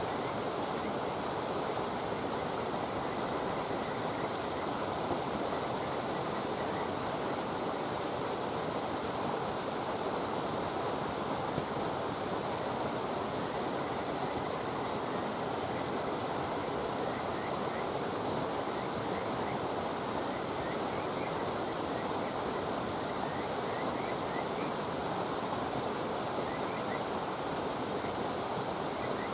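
Outdoor ambience at a campfire: a steady rushing noise with a couple of faint pops. Over it, a short high chirp repeats about every one and a half seconds.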